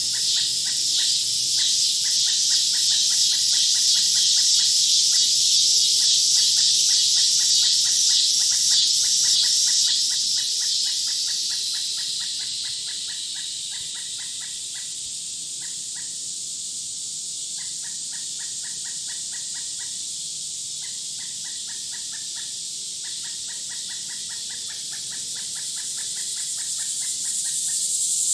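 Woodland nature ambience of insects and birds: a dense, high-pitched insect buzz that is loudest in the first dozen seconds, fades, then swells again near the end, over a long train of rapid, short chirps.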